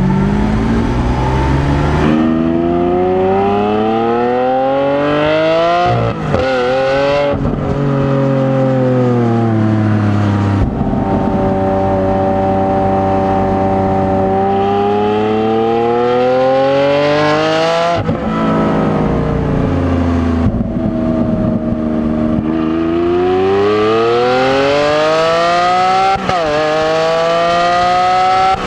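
Lamborghini Aventador LP700-4's V12 accelerating hard, its note climbing in pitch through the gears with a sharp break at each shift. In the middle it eases off, falls and holds a steady note while cruising, then accelerates again through more shifts near the end.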